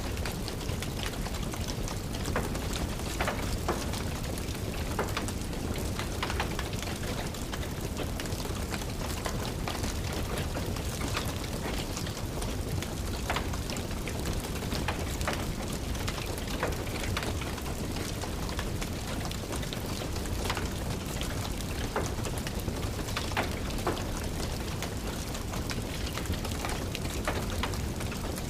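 Steady rain, with irregular sharp crackles and pops of a wood fire burning in a fireplace.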